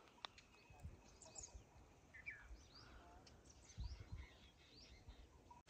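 Faint, scattered chirps and short calls of small wild birds, with a few soft low thuds.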